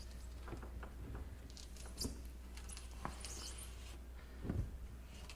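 Rubber dishwasher door seal being pulled out of its groove by hand: faint squeaks, scrapes and clicks, with a dull knock about four and a half seconds in, over a steady low hum.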